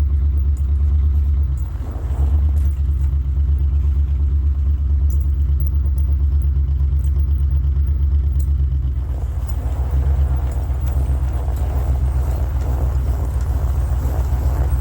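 1967 International 1200 truck's engine running with a steady low rumble. It dips briefly about two seconds in, and from about nine seconds on it runs rougher and busier, as if pulling under load.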